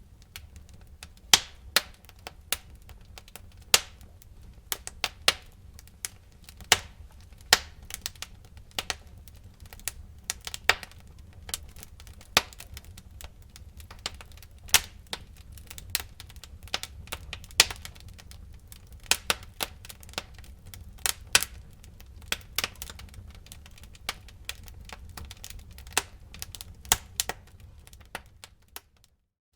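Wood fire crackling in a fireplace: irregular sharp cracks and pops, several a second, some loud, over a low steady rumble of the flames. The sound cuts out for a moment near the end.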